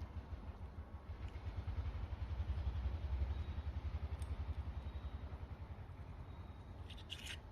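A low, fast-pulsing engine rumble that swells about two to three seconds in and then fades, like a motor vehicle passing. A few light metallic clinks come near the end.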